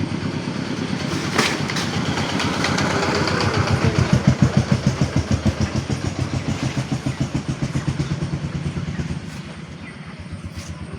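An engine running with a rapid, even chugging, loudest in the middle and dropping in level near the end.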